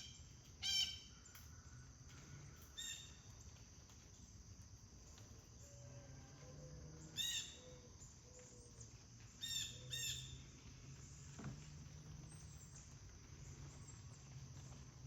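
A bird calling outdoors: short calls with several stacked pitches, about five of them, at about a second in, near three seconds, near seven seconds and twice in quick succession near ten seconds. Beneath them runs a steady high insect drone.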